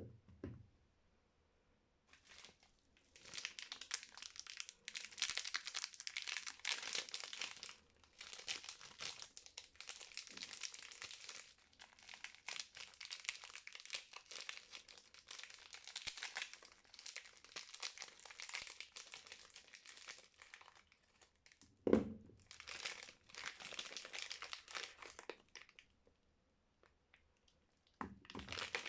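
Soap packaging being unwrapped by hand: the wrapper crinkles and tears in a long run of crackling. There are dull knocks at the start, about 22 seconds in (the loudest) and near the end.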